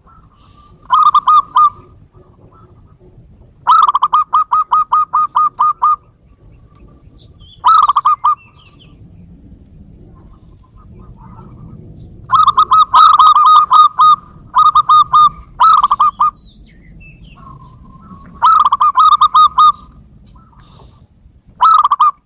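Zebra dove (perkutut) calls from a lure recording: bursts of rapid, evenly pulsed coos, repeated about eight times with gaps of one to four seconds between them.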